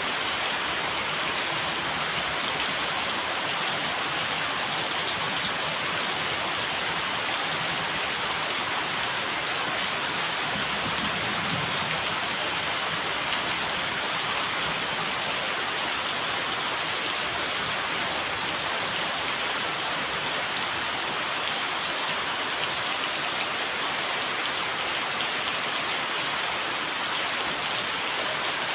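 Steady rain falling, an even hiss of many drops hitting surfaces, with no change in strength.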